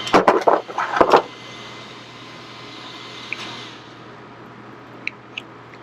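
Hard plastic clattering and clicking in the first second or so, as the body shell of an RC truck is handled and lifted off its freed body clips, then a faint steady hiss and two light clicks near the end.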